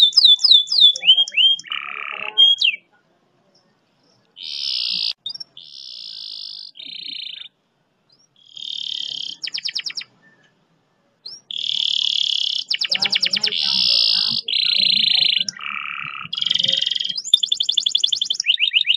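Domestic canary singing long, fast rolls: phrases of rapidly repeated notes and trills, some falling in pitch, broken by short pauses and running almost without a break in the last third.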